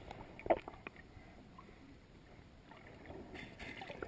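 Faint water sloshing and lapping, with a short soft sound about half a second in.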